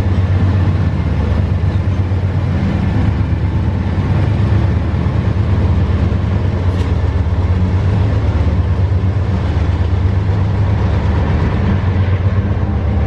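Train running, with a steady, loud, low engine rumble that holds evenly throughout.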